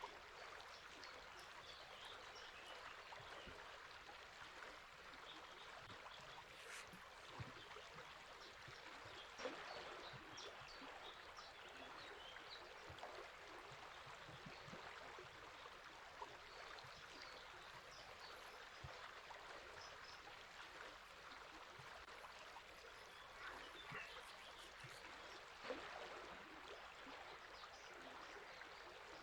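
A river flowing steadily and faintly, with small birds chirping now and then above the water.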